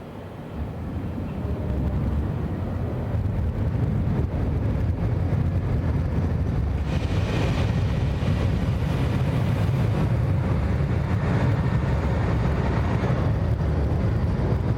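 Super Hokuto diesel express train rolling into the station, a low rumble that builds over the first two seconds and then runs steady and loud, with a hiss rising in the upper range about seven seconds in.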